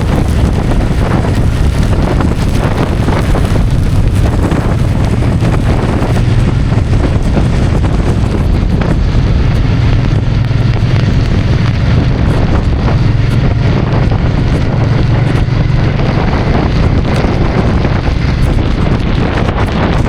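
Suzuki Boulevard C50's 805 cc V-twin engine running steadily while riding, under heavy wind noise buffeting the microphone.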